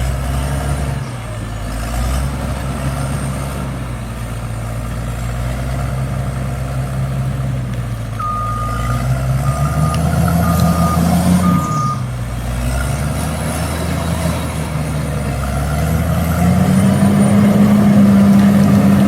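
Bulldozer's diesel engine running, its pitch rising as it works under load about ten seconds in and again near the end. Four reversing beeps sound about eight to twelve seconds in.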